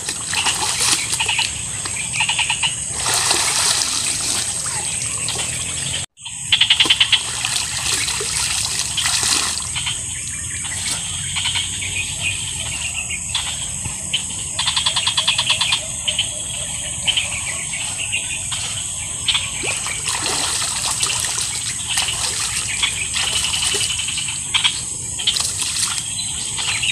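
Shallow muddy water splashing and sloshing as a person wades and bathes in it, over a steady high chorus of trilling animal calls from the surrounding wetland. The sound cuts out for a moment about six seconds in.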